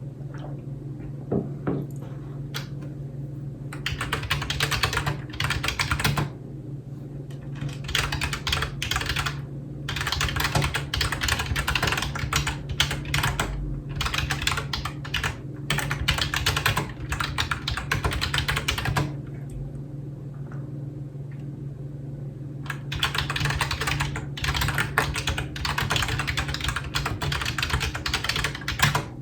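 Typing on a computer keyboard: fast runs of clacking keystrokes with short pauses between them, the longest pause a few seconds in the middle.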